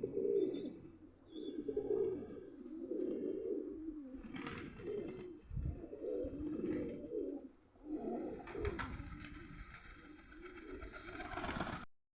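Domestic pigeons cooing over and over in low, repeated coos, with a rustling noise over the last few seconds.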